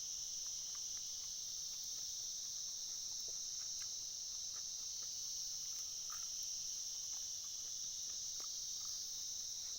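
Steady high-pitched drone of an insect chorus, with a few faint scattered ticks.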